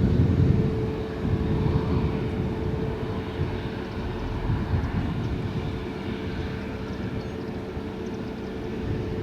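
Airbus A320neo jet engines at takeoff power, a low rumble with a steady hum held through it, slowly fading as the plane climbs away.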